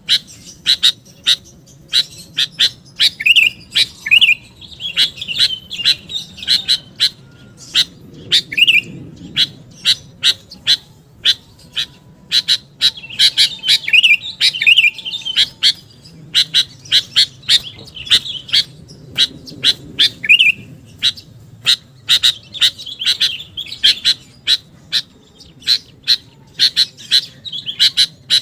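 Sooty-headed bulbul calling rapidly: a dense string of sharp chips mixed with short, bubbly whistled phrases, the kind of call used to lure other bulbuls.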